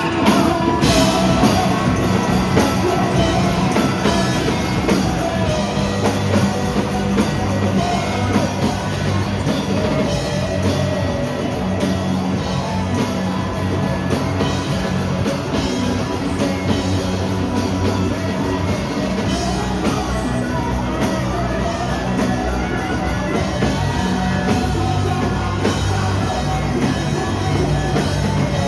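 Rock band playing live: drum kit, electric guitar and singing.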